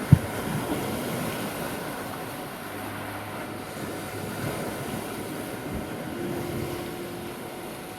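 Sea waves washing onto the shore with wind noise. A single sharp knock comes a fraction of a second in.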